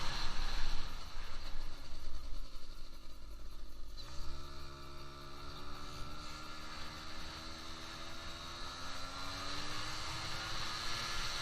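Yamaha Aprio 50 cc two-stroke scooter engine on a test ride. After a few seconds of rushing noise, the engine note comes in about four seconds in and climbs steadily in pitch as the scooter accelerates.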